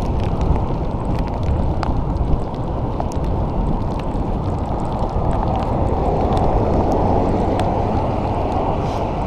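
Wind rushing over the microphone while cycling, a steady low rumble, with scattered small ticks throughout.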